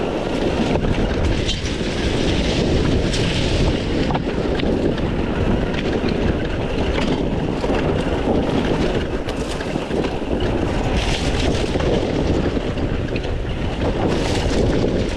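300 cc two-stroke dirt bike being ridden over rough trail, heard from an on-board camera: heavy wind buffeting on the microphone over the running bike, with scattered knocks and clatter from the terrain.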